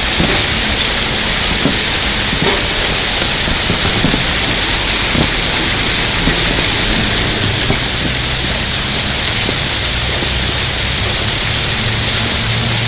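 Heavy hailstorm of large hailstones: a dense, steady clatter of hail striking the ground and nearby surfaces, with scattered sharper single hits standing out.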